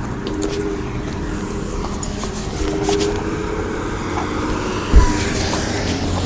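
Motor vehicle engine running amid road traffic, with a single low thump about five seconds in.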